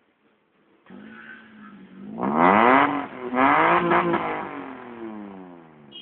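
Toyota Avanza engine through an aftermarket header and muffler: the engine sound comes in about a second in, then is revved twice in quick throttle blips, the pitch rising sharply and falling slowly back toward idle each time.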